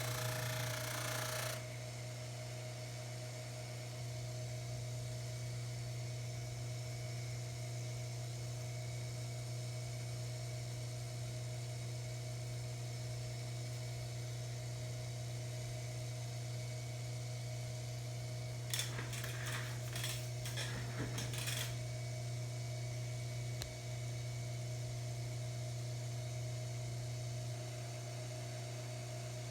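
Baldor 353T dental lathe buffer running steadily with a low motor hum. A broad hiss stops about a second and a half in, and a short cluster of clicks and knocks comes about two-thirds of the way through.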